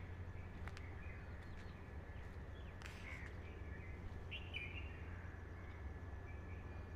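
A few faint, scattered bird chirps over a steady low background hum.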